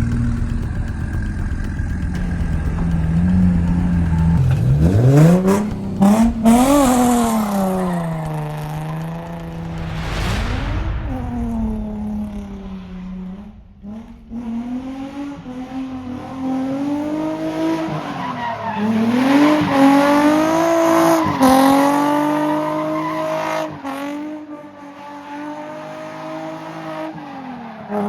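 Car engine revving hard, its pitch climbing and dropping again and again, with bursts of tyre squeal as the car is drifted.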